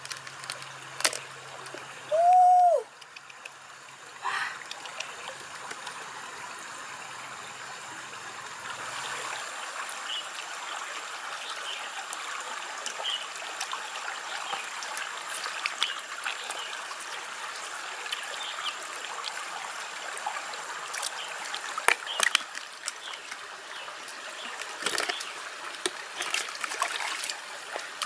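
Water trickling and splashing steadily, with scattered small clicks and splashes. A brief loud tone dips and rises about two seconds in.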